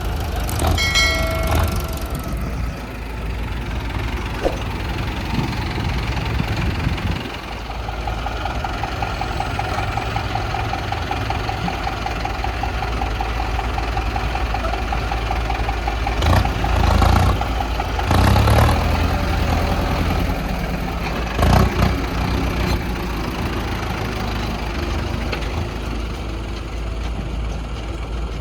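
Diesel engines of an excavator and farm tractors running steadily at a low rumble, with a whining tone through the middle and a few short, louder clattering bursts in the second half.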